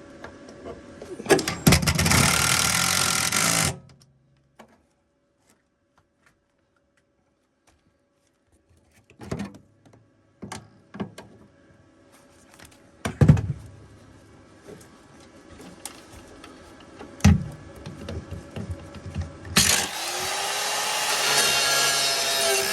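A MIG welder laying a short bead with .025 wire: about two and a half seconds of loud crackling, starting about a second in. Then come several sharp metal knocks and clanks. Near the end another loud, steady metalworking noise starts, with a slight rising tone.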